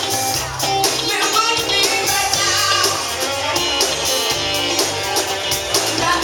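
A rock band playing an up-tempo number, with guitar, bass and drums keeping a steady beat.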